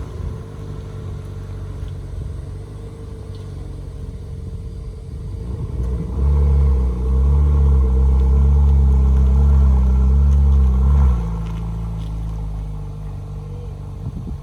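Car engine running; about six seconds in it grows much louder, its pitch rising a little and holding for about five seconds under throttle, then eases back off.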